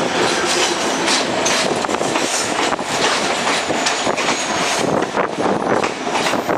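Express train of ICF passenger coaches running along the track, its wheels clattering continuously over the rails, with a faint high wheel squeal here and there.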